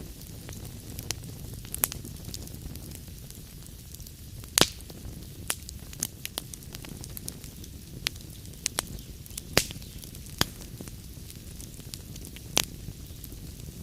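Log fire crackling in a fireplace: a steady low rumble and soft hiss, broken by irregular sharp pops and snaps. The loudest pops come about a third of the way in, about two-thirds in and near the end.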